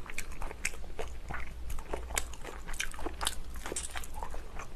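A person chewing a mouthful of spicy dumpling, close to the microphone: a run of short, irregular mouth clicks and smacks.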